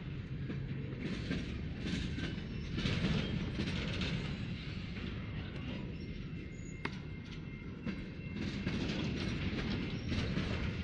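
Empty coal train rolling past: a steady low rumble with wheels clattering over the rail joints, the clatter swelling and fading again and again.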